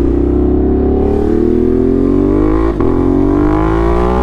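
Ducati Monster's 1200cc V-twin through an SC Project exhaust, accelerating hard with its pitch climbing. About two-thirds of the way through there is a quick upshift: the note drops and then climbs again.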